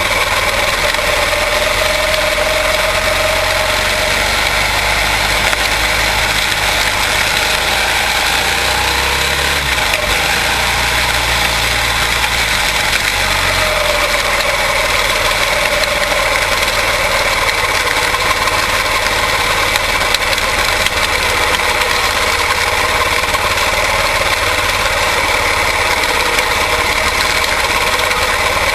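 Quarter midget race cars' Briggs & Stratton Animal single-cylinder engines running at racing speed, a steady loud drone whose pitch drifts up and down.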